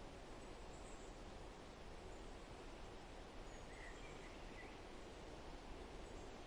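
Faint forest ambience: a steady soft background hiss with a few brief, faint bird chirps about halfway through.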